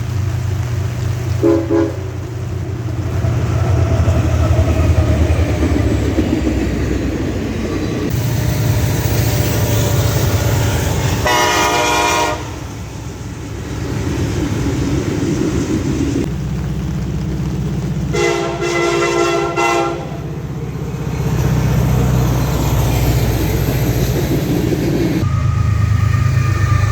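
Diesel locomotives rumbling past with a steady low engine drone, sounding a multi-chime air horn: a short toot about a second and a half in, a blast of about a second near the middle, and a longer blast of about two seconds later on.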